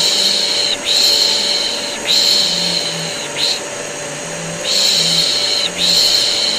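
A person shushing a baby with long, repeated "shhh" hisses, roughly one a second with brief breaks, over the steady drone of a vacuum cleaner used as white noise for a colicky baby.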